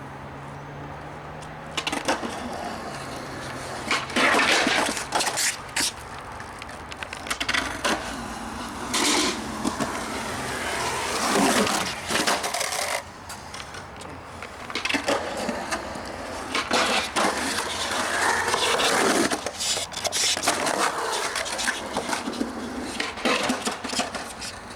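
Skateboard rolling with repeated sharp clacks and impacts of the board, coming and going in loudness.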